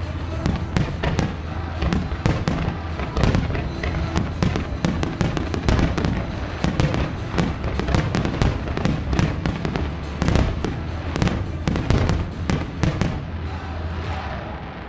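Aerial fireworks in a rapid barrage: many shells bursting in quick succession, with crackling and booms overlapping, over a show soundtrack. The bursts thin out near the end.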